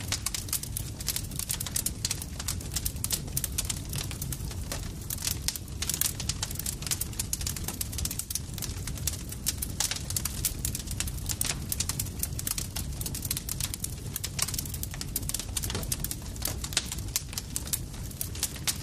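Campfire crackling: dense, irregular pops and snaps of burning wood over a steady low rumble.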